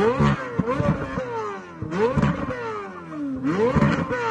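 2023 Chevrolet Corvette Z06's flat-plane-crank V8, on its stock exhaust, free-revved at a standstill: the revs shoot up sharply and fall away slowly, three times, with new blips about two seconds in and about three and a half seconds in.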